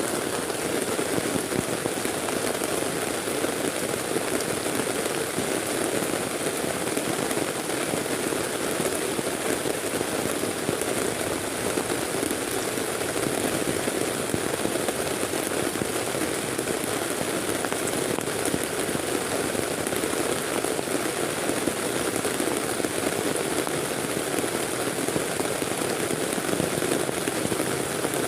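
Heavy rain falling steadily, a dense unbroken patter.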